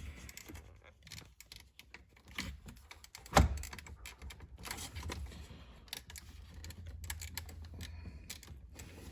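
Scattered small plastic clicks and taps of hands working the clips of electrical connectors on a loose car center-console piece, with one louder knock about three and a half seconds in.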